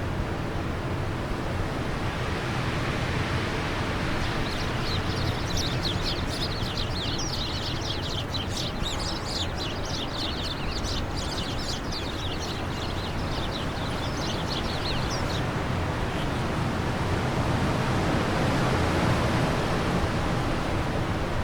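Wind blowing steadily, swelling a little near the end, with a small songbird twittering in a fast run of high chirps for about ten seconds in the middle.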